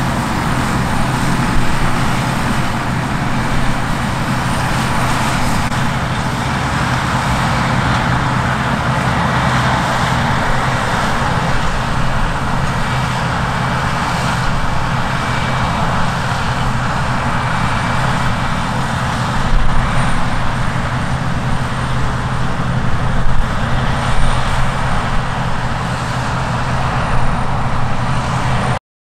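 Steady road-vehicle noise with a constant low hum, cutting off suddenly near the end.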